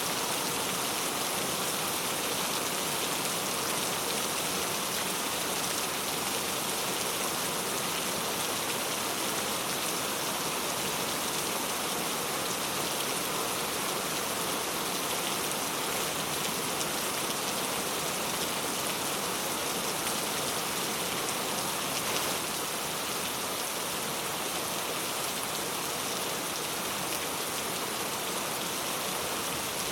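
Steady rain falling and pattering on surfaces, an even hiss, which drops slightly in level about 22 seconds in.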